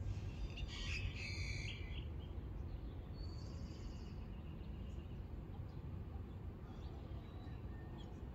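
Birds chirping and calling, a burst of high chirps in the first two seconds, another short call a little after three seconds and scattered faint chirps after that, over a steady low background rumble.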